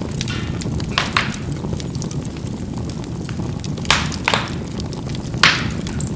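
Charcoal burning in a fireplace: a steady low rumble of the fire, broken by sharp popping crackles as the coals burst, twice about a second in, twice around four seconds in, and once, loudest, near the end.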